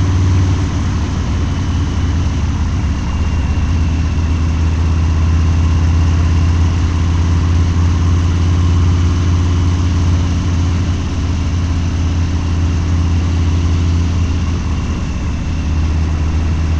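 Harley-Davidson Low Rider's 129 cubic inch V-twin running through a Two Brothers Racing exhaust, holding a steady low engine speed with no revving, much like an idle.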